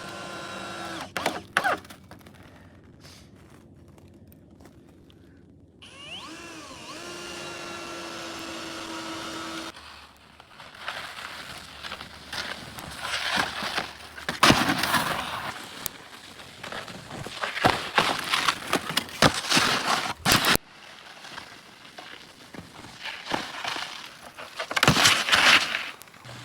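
A drill driving screws into a 2x10 board: a steady motor whine held for a few seconds at a time, with a couple of sharp knocks. The second half is uneven surges of scraping, rushing noise with a few sharp cracks.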